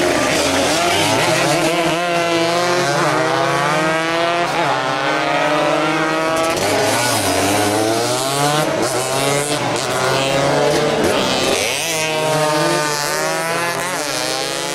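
Several motorcycle engines running hard at once, their pitch repeatedly rising and falling as they rev and pass.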